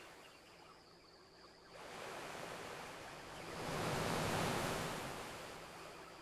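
Ocean waves washing onto a shore: a quiet lull, then one wave swelling up about two seconds in, peaking mid-way and slowly receding.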